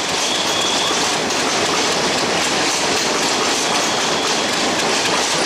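Meter-gauge passenger coaches rolling past on the track: a steady clatter of the wheels running over the rails, with a thin high tone that fades out about a second in.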